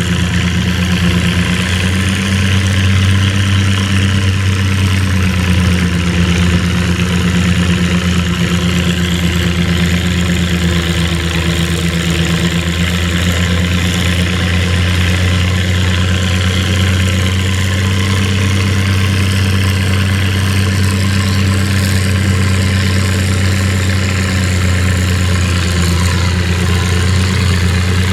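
Antique farm tractor engine running steadily at a constant, even speed, with a low steady note.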